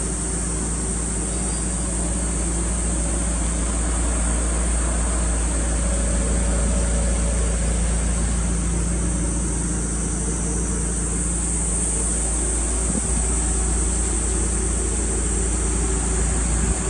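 Toyota Altezza RS200's 3S-GE two-litre four-cylinder engine idling steadily, heard at the tailpipe through its aftermarket TRD muffler.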